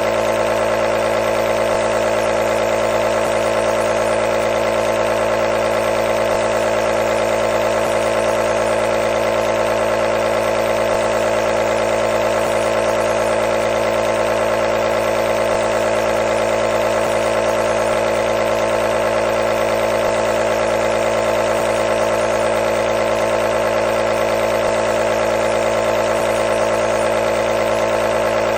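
Nebulizer compressor running continuously: a steady, loud mechanical hum with a buzzing drone and no change in pace.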